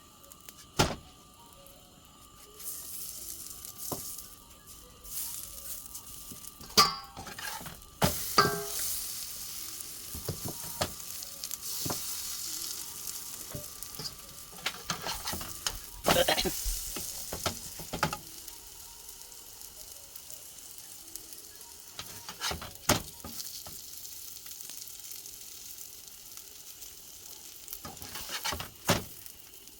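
Potato-stuffed roti sizzling as it cooks on a hot griddle, with sharp knocks now and then as it is handled and turned.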